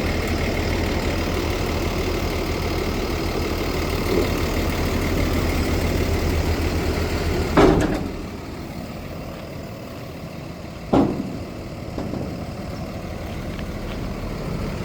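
Dump truck's diesel engine idling steadily, then a loud sharp knock about halfway through, after which the engine sound drops away. A second sharp knock follows a few seconds later.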